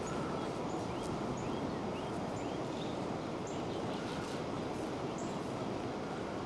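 Small birds chirping repeatedly, short rising chirps about twice a second, over a steady background hiss.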